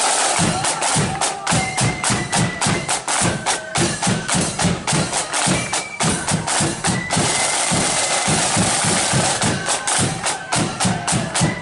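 Marching flute band's drum corps beating a steady march rhythm of quick, sharp snare strikes over bass drum, with the flutes silent apart from a few faint brief notes.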